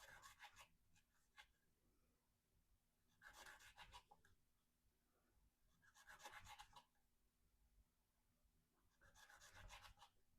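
Spyderco Endura 4's VG-10 blade slicing through rope, four faint scratchy cuts about three seconds apart, as repeated cuts in an edge-retention test.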